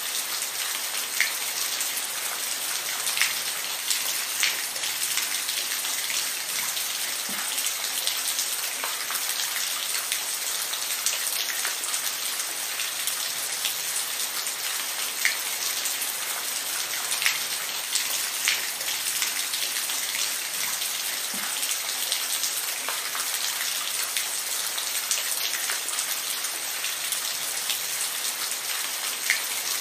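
Steady rain falling, a continuous hiss with many separate drops ticking sharply on a nearby surface.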